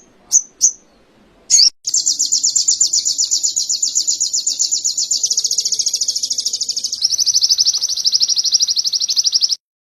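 Songbird singing canary-style tutor song: a few short high chirps, then a long, fast, even trill that steps slightly lower in pitch about seven seconds in and cuts off suddenly near the end.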